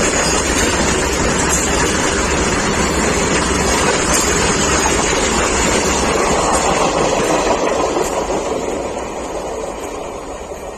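Freight train of covered wagons hauled by a WAG9HC electric locomotive rolling past, a loud steady rumble of wheels on rail that fades over the last few seconds as the train draws away.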